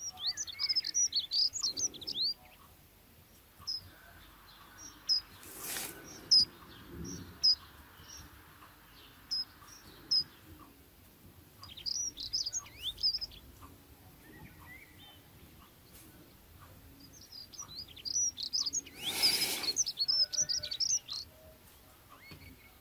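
Small birds chirping and twittering in quick bursts of short high notes, with pauses between the bursts. Two brief rustling noises stand out, about six seconds in and near nineteen seconds.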